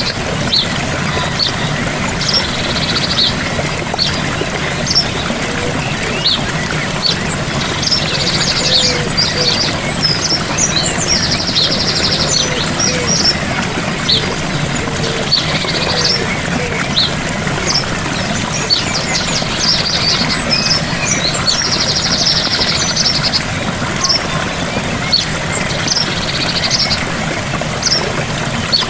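Steady rush of a gentle waterfall with songbirds chirping over it. A rapid trill recurs every three to four seconds.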